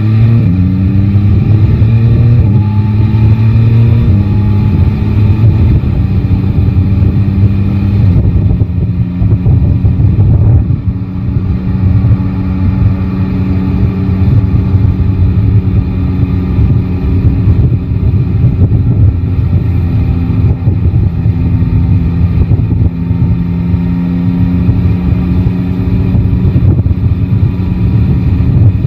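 Yamaha Tracer 9 GT's inline three-cylinder engine picking up revs over the first few seconds, then running at steady cruising revs. Wind noise rumbles over the microphone throughout.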